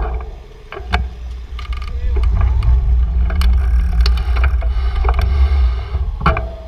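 Street sound heard from a moving bicycle: a steady low rumble of wind and road under sharp clicks and rattles, with a short rising hum in the middle.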